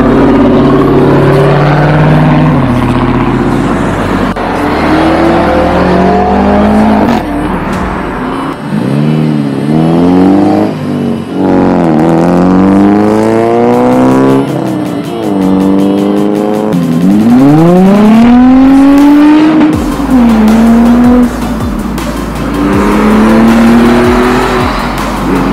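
Car engines revving and accelerating, the pitch climbing and dropping again and again, over music with a steady, stepping bass line.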